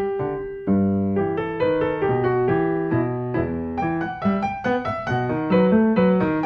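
Background piano music: a gentle melody of single struck notes over held bass notes.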